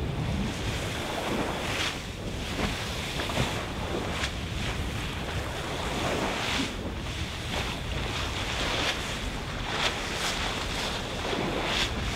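Wind rumbling on the microphone over the steady rush of sea along a racing sailboat's hull, with a surge of water hiss every second or two as waves and spray hit the boat.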